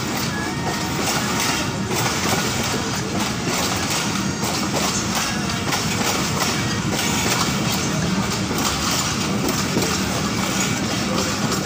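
Running noise of a moving train heard from inside a carriage: a steady rumble and rush of the wheels on the rails, with light clattering over the rail joints.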